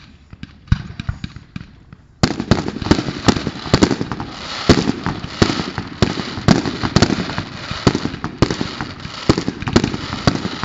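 Aerial fireworks: a few scattered pops, then about two seconds in a sudden dense barrage of rapid bangs and crackles that keeps going, like gunfire.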